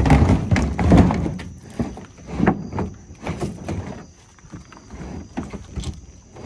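Pickup truck bed liner being pulled out of the truck bed: scraping and hollow thumps, busiest in the first second and a half, then scattered knocks.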